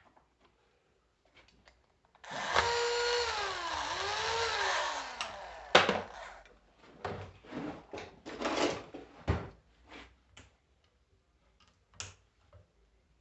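Power drill or screwdriver run on the bolts of a car starter motor for about three seconds, its motor note dipping twice as it loads up. A sharp metallic click follows, then a few shorter rattling, scraping handling sounds of parts being worked free.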